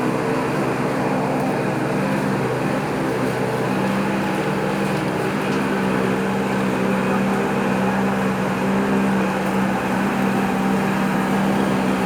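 Steady machinery hum with a constant low drone, running evenly without breaks.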